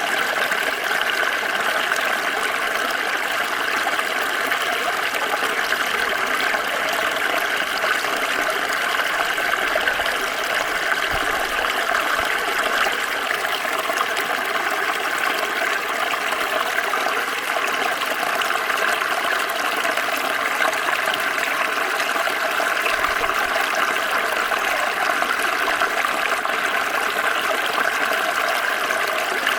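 Small stream flowing over stones, a steady burbling rush of water with no pauses.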